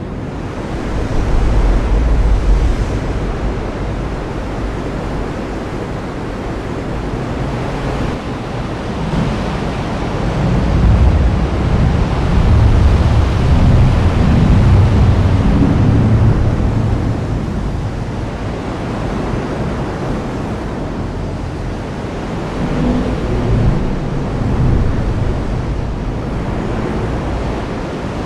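Heavy rain falling steadily, with low thunder rumbling that swells about a second in, again for several seconds from about ten seconds in, and briefly near the end.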